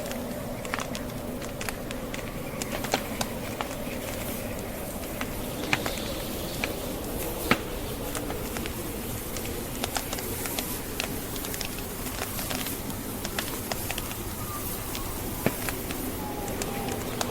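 Wood fire crackling with frequent sharp pops, a few louder ones scattered through, over the steady sound of blizzard wind.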